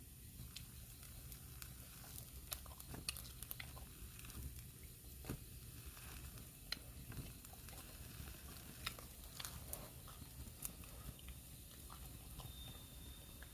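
Burning firewood in a fire pit crackling, with scattered sharp pops at irregular intervals. A faint thin high whistle is heard briefly near the end.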